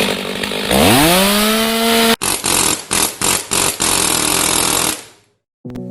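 A handheld power tool in metal repair work: its motor spins up to a steady high speed, then after a cut it runs against the work in several stretches broken by short pauses. It stops about five seconds in, and music begins just before the end.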